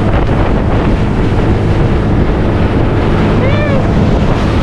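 A small boat under way: its engine drones steadily, with heavy wind buffeting the microphone and water rushing past. A short rising-and-falling call comes about three and a half seconds in.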